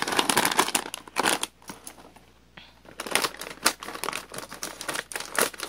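A plastic snack bag of potato chips crinkling and rustling as it is handled and opened, with a run of irregular sharp crackles.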